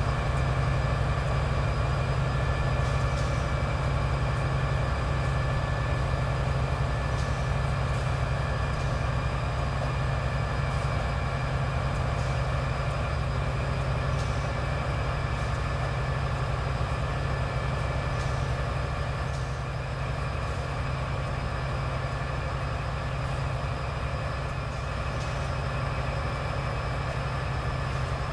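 Steady low drone of a train's diesel engine, with a faint steady high whine above it and a few faint ticks.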